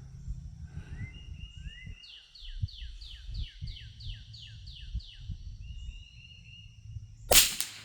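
A songbird sings a run of quick down-slurred chirps, about three a second. Near the end a Brno Model 1 .22 LR rifle fires a single shot, sharp and brief.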